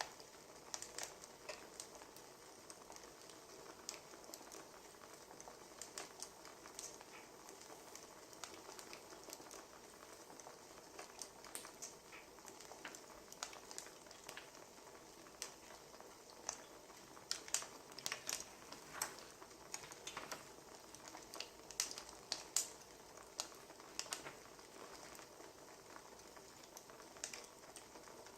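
Wood fire crackling: irregular small pops and snaps over a soft steady hiss. The pops come thicker in the second half.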